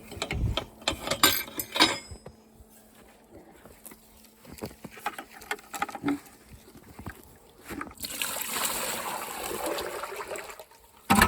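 Knocks and clatter of handling the goats' water container, then water pouring steadily into it for about three seconds near the end, refilling water that had turned to slush. A sharp knock closes it.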